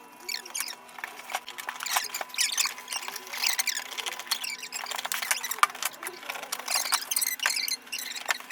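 Cardboard being worked by hand: a quick, irregular run of scratchy, squeaky scraping and crackling strokes.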